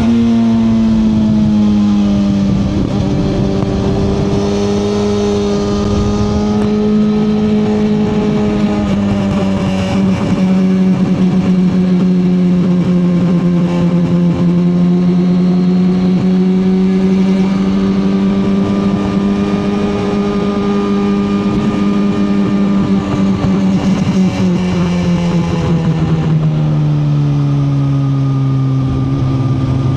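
2021 Suzuki GSX-R1000R inline-four engine running under way at fairly steady revs, the pitch rising and falling gently. About three-quarters of the way through the revs drop clearly and stay lower as the throttle is eased off.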